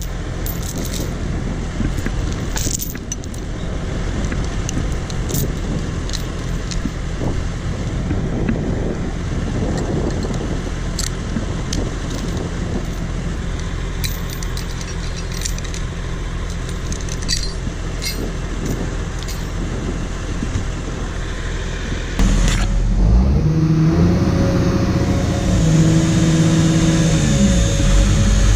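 Skidder's diesel engine running steadily with light metallic clinking, then revving up and changing pitch about 22 seconds in.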